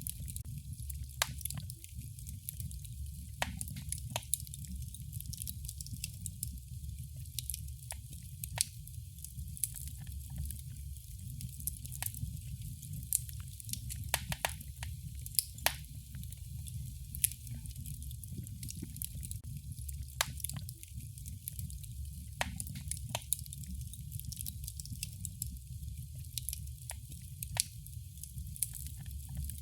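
Wood fire in a fireplace crackling: irregular sharp pops and snaps, several a second at times, over a steady low rumble of the burning.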